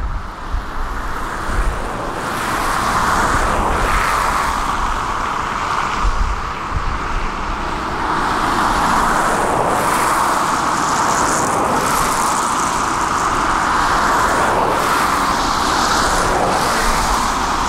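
Heavy diesel construction machinery running steadily under load, a continuous engine and hydraulic noise over a low rumble that grows a little about two seconds in and then holds even.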